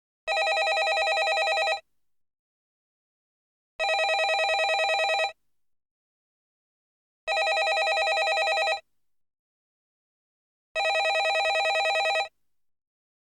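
Landline telephone bell ringing in a repeating cadence: four rings, each about a second and a half long with a fast trill, separated by pauses of about two seconds.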